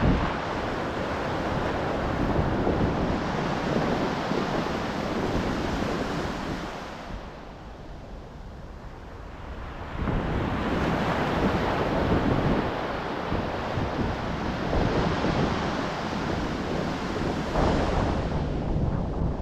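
Ocean surf breaking and washing ashore, with wind buffeting the microphone. The wash eases off about a third of the way through, then a new wave breaks about halfway.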